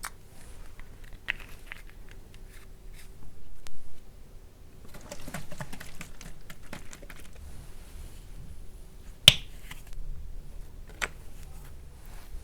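Close-miked handling of small plastic cosmetic bottles: scattered light clicks and taps, a stretch of crackly handling noise near the middle, and one sharp click about three quarters of the way through.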